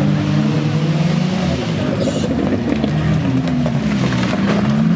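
Several wreck-race car engines revving at once, their pitches rising and falling over each other, with a few sharp knocks about four and a half seconds in.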